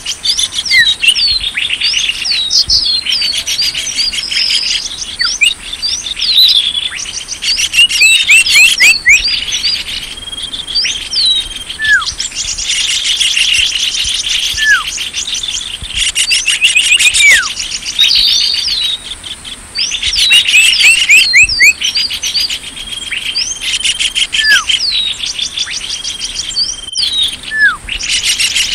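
Dense chorus of small songbirds chirping and trilling, many calls overlapping in quick runs, with a short falling whistle repeating every few seconds: a bird-lure recording of small birds.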